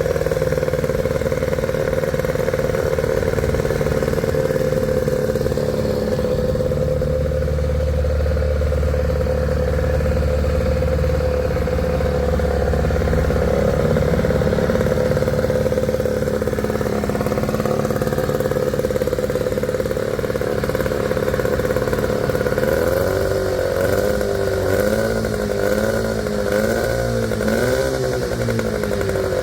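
Evinrude 15 hp two-stroke outboard motor running steadily. In the last several seconds its note wavers up and down about once a second.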